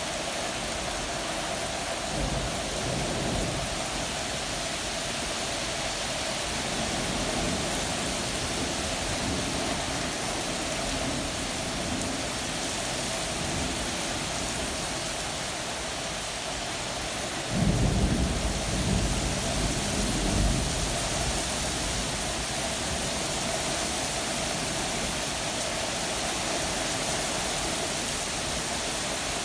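Steady rain falling through a thunderstorm. A faint roll of thunder comes about two seconds in, and a louder thunderclap rumbles for about three seconds a little past halfway.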